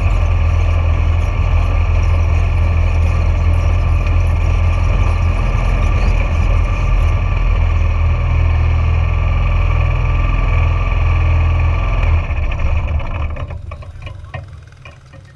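Junior dragster's single-cylinder engine running at a steady speed, then dying away over the last few seconds.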